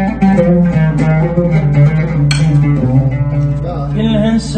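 Iraqi oud playing a quick plucked melodic run between sung lines of a mawwal. A voice comes back in singing near the end.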